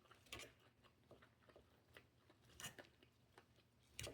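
Faint close-up chewing of a leafy salad: soft wet mouth sounds with three sharper crisp clicks, about a third of a second in, past two and a half seconds, and near the end.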